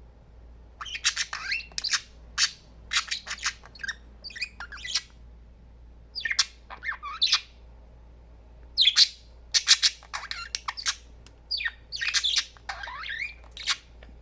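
Pet budgies chattering: quick runs of short, high-pitched chirps and squawks, some gliding up or down in pitch. They start about a second in and come in several bursts with short pauses between.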